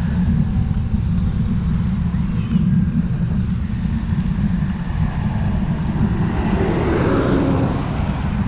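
Wind rushing over the microphone of a moving road bike, a steady low rumble, with a louder swell of noise about seven seconds in.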